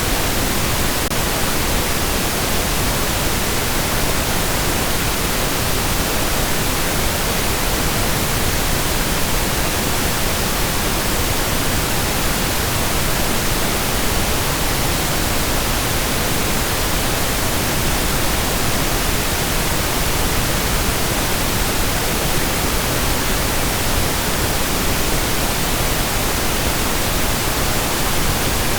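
Steady pink noise: an even, unchanging hiss spread across the whole range, softer in the highs than white noise.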